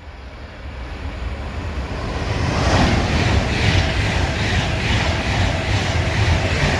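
Avanti West Coast Class 390 Pendolino electric train passing through at speed. The rush of wheels on rail and air builds as it nears, then holds loud and steady with a regular beat from the wheels passing.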